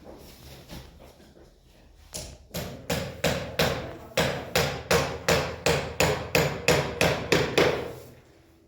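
Steady hammering: a run of about seventeen sharp blows, about three a second, starting about two seconds in and stopping shortly before the end.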